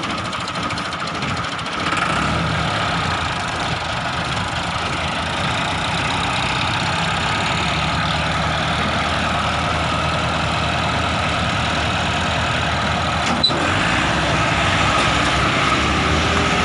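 Massey Ferguson tractor diesel engine running steadily, a little louder from about two seconds in. A single sharp click sounds near the end.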